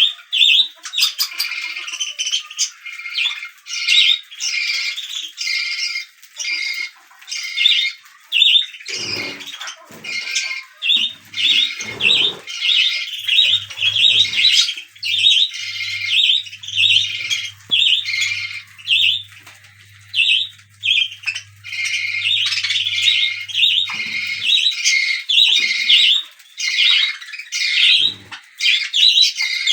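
Baby budgerigars calling almost nonstop with rapid, harsh, repeated squawks and chirps, several calls a second.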